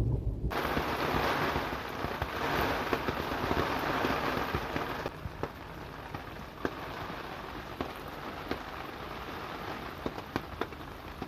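Heavy rain falling, an even hiss with sharp taps of drops striking hard surfaces. It turns quieter about five seconds in, leaving mostly scattered drip taps over a softer hiss.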